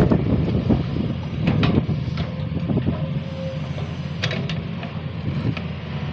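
Sany SY215C excavator's diesel engine running steadily, with scattered clanks and knocks over it.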